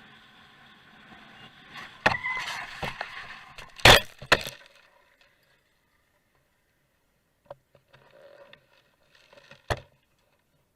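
Car crash: a steady vehicle drone, then from about two seconds in a run of hard impacts with crunching and breaking, the loudest about four seconds in. After that the drone is gone, and one more sharp knock comes near the end.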